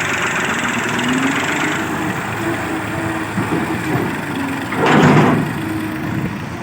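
Engine idling steadily, with a short, loud rushing burst about five seconds in.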